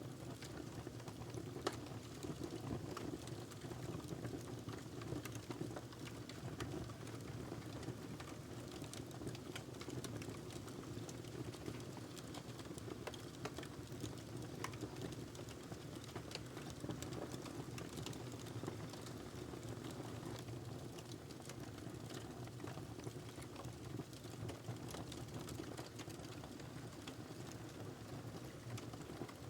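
Wood fire crackling in a fireplace: a steady low rumble of the burning fire with many small, irregular pops and crackles.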